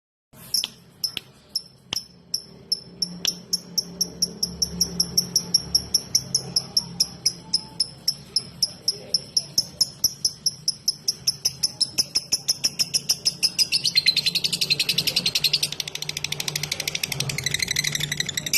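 Lovebird 'ngetik' call: sharp, high ticking chirps that start a few apart and speed up to about four or five a second. From about 14 s they run into a dense chattering warble.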